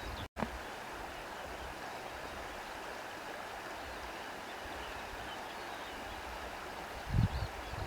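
Steady rushing wind with faint bird chirps. The sound cuts out completely for an instant about a third of a second in, and there is a short low thump near the end.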